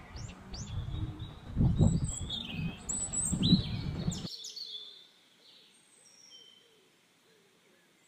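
Small birds chirping and calling, many short quick notes, over a low rumble. The rumble stops abruptly about four seconds in, and the birdsong carries on much fainter.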